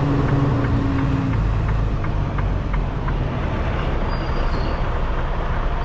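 Diesel engine of a Freightliner Cascadia semi truck running at low speed while the rig reverses, a steady low rumble with a light regular ticking about three times a second.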